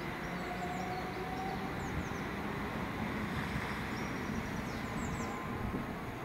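Electric multiple-unit train pulling away and receding down the line: a steady rumble with a faint, even whine from its traction motors.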